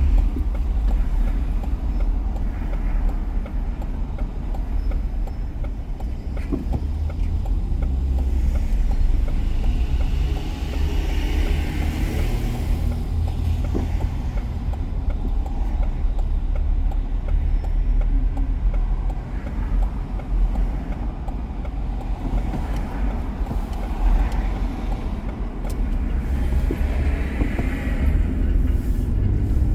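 A car driving on city streets: a steady low rumble of engine and tyre noise, with a louder rushing swell around ten seconds in and again near the end.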